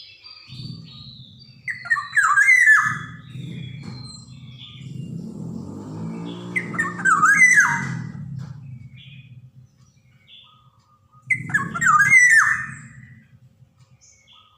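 Black-naped oriole (kepodang) giving harsh, squawky calls in three bouts about five seconds apart, each a quick run of sweeping notes. A low rumble runs underneath for most of it.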